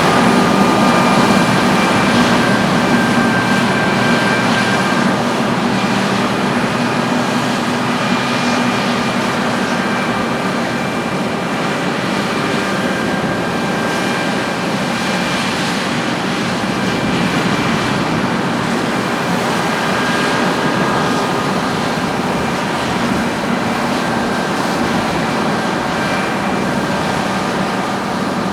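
Heavy harvest machinery running steadily: a constant engine hum with several high whining tones over a broad mechanical rush, the level holding even.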